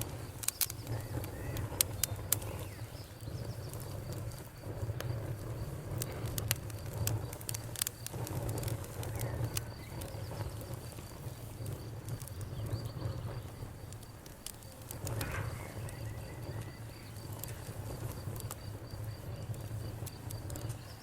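Campfire crackling: irregular sharp pops and snaps of burning wood, thickest in the first couple of seconds, over a steady low rumble of the flames.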